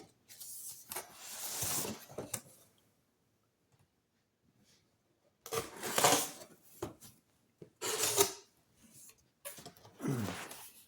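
Cardboard box and packaging being handled and opened: irregular bursts of rustling, scraping and tearing, with a quiet pause of a few seconds in the middle.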